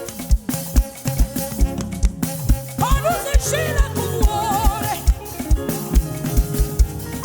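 Live worship band music: a drum kit with a steady kick drum at about two and a half beats a second, bass and held keyboard chords. A brief wavering melodic line comes in about three seconds in.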